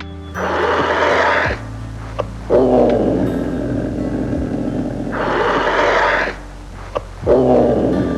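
An animal's long, rough, rasping roars, several in a row with some higher and some lower, over soft background music.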